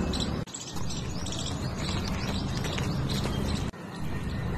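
Small birds chirping repeatedly over a steady outdoor background hiss; the sound drops out briefly twice.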